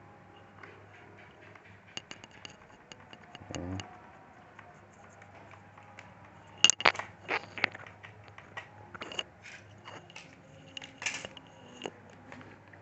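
Irregular clicks, taps and scrapes of small metal screws and a screwdriver against a laptop's plastic case during reassembly, with a short dull knock about three and a half seconds in and a cluster of sharper clicks around the middle.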